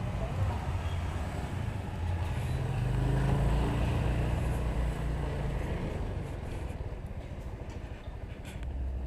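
Motorcycle engine running on the move, with road and wind noise. The engine swells louder from about two seconds in, then eases off toward the end.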